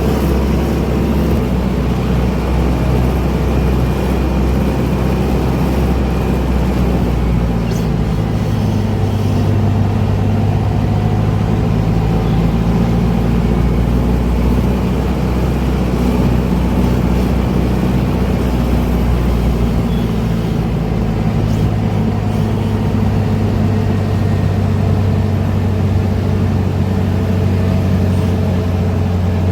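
Diesel engines of a sugarcane harvester and tractor running steadily under load. The engine note steps up about a quarter of the way in, drops back briefly about two-thirds through, then rises again.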